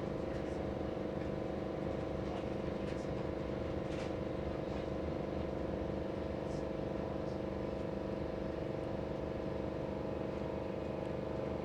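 Interior of a Heathrow Express electric train in motion: a steady rumble of wheels on the rails with a constant electric hum, and a few faint ticks.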